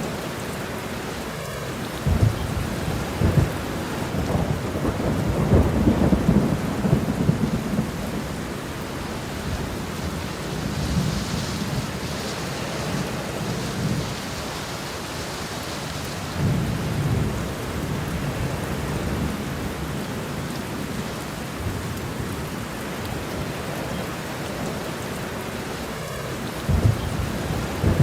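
Steady rain with low rolls of thunder: a long rumble a couple of seconds in, a shorter one around the middle, and another near the end.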